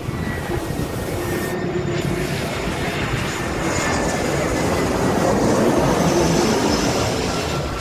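Jet airliner passing, its engine noise swelling to a peak about five to six seconds in, with a faint high whine.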